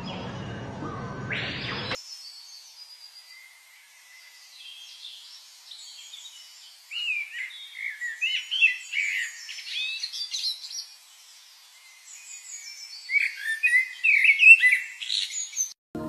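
Soft music with held tones cuts off about two seconds in, leaving high-pitched bird chirps and quick trills, thickest in two spells, one in the middle and one near the end.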